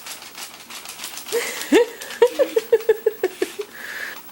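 A young girl's voice making silly bird calls: a rising squawk, then a quick run of short chirps, about six a second, with light taps or footfalls before them.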